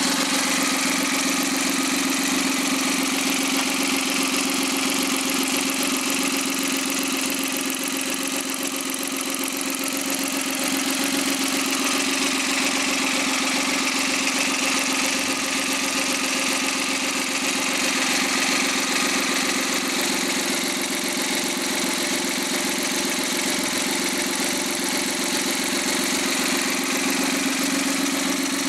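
Suzuki K6A 660 cc three-cylinder turbo engine running steadily at an even speed, without revving, on a test run after overhaul.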